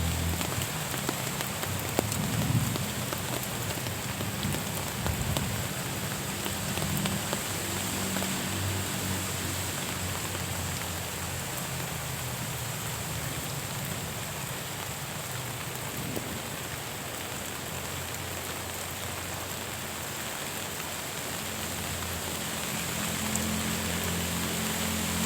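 Steady rain falling, with scattered ticks of individual drops and a low rumble underneath that swells near the start and again near the end.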